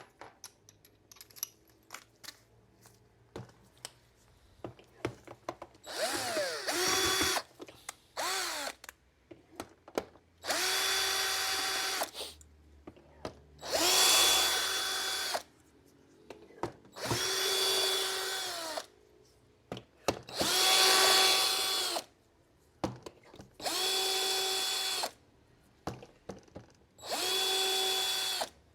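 Cordless electric screwdriver running in about eight short bursts of one to two seconds each, spinning up and holding a steady whine while backing screws out of the underside of a robot vacuum, with light clicks between the runs.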